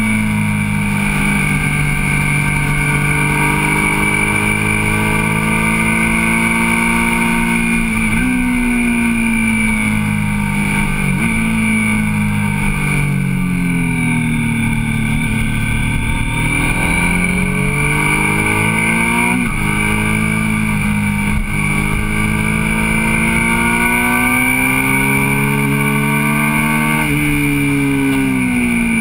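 Motorcycle engine heard on board while riding through bends. The revs rise and fall slowly as the rider accelerates and eases off, with several sudden jumps in pitch at gear changes.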